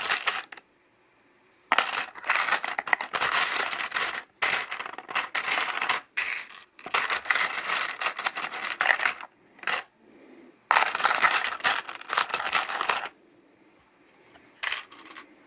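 Loose small LEGO pieces clattering and rattling as a hand rummages through them, in three bursts of a few seconds each, with a lone click near the end.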